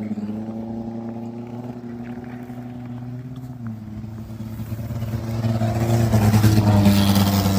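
Motor vehicle engine running with a steady hum. Its pitch drops slightly a little over three seconds in, then it grows louder with rising road or wind noise toward the end.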